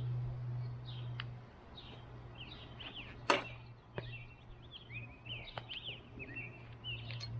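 Small birds chirping over and over above a steady low hum, with one short sharp whoosh about three seconds in.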